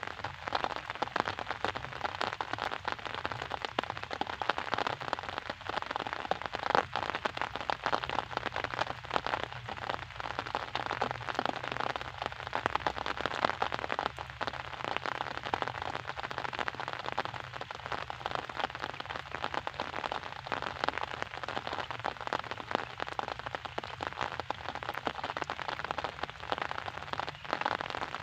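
Steady rain falling and pattering on a surface, a dense spatter of many small drops with no let-up.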